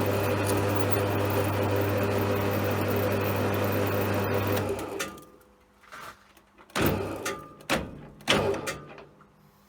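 A CJM360 bench lathe runs with a steady motor hum, then switches off and runs down about four and a half seconds in. Several sharp knocks follow over the next few seconds.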